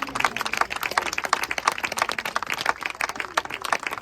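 A group of people clapping in applause, a dense, irregular run of hand claps.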